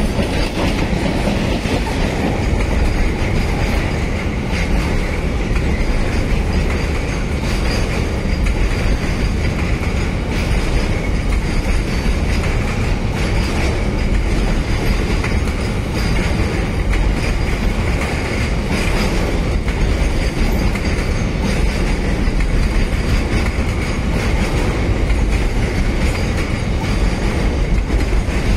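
Enclosed car-carrier freight wagons rolling past close by: a steady, unbroken rumble of steel wheels on the rails with clattering over the rail joints.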